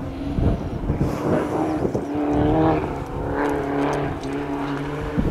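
Car engine accelerating, its pitch climbing, then dropping at a gear change about three seconds in and holding steady.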